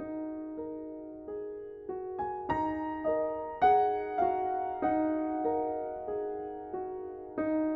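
Background music: a slow, gentle solo piano piece, single notes struck one after another and left to ring out.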